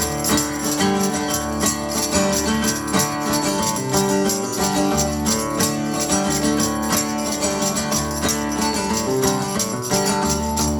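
Live band playing an instrumental passage without vocals, instruments over a steady beat.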